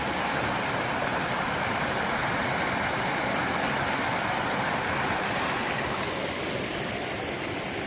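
Rain-swollen creek pouring over a small waterfall: a steady rushing of water, easing slightly about six seconds in.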